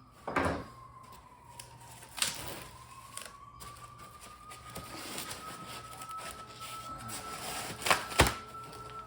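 Knocks and rustling of a cardboard box being handled and opened, with two sharp knocks near the end the loudest. A faint steady whine runs underneath, drifting slightly in pitch.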